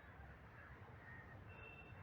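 Near silence: faint outdoor background rumble, with a faint short high-pitched tone in the second half.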